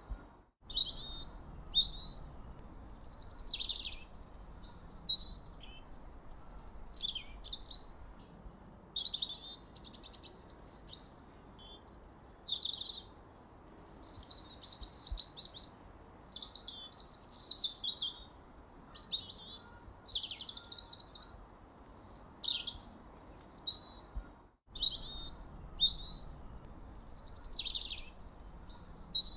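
Songbirds chirping and singing, many short, quick calls and falling whistles overlapping without pause, over a faint steady hiss. The whole sound drops out for an instant twice, about half a second in and near 25 seconds in.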